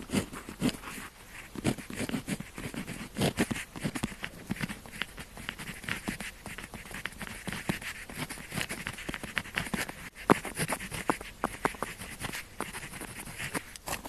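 Pen tip scratching on paper in short, irregular strokes, with small ticks as the pen touches down and lifts off.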